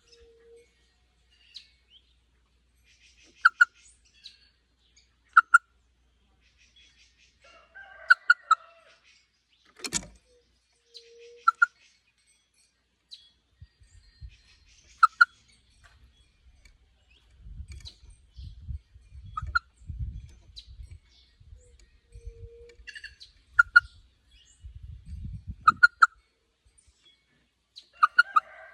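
Plush-crested jays calling: short, sharp call notes repeated every couple of seconds, with buzzy rattling calls in between. A single sharp click comes about ten seconds in, and a low rumbling noise runs through the middle and latter part.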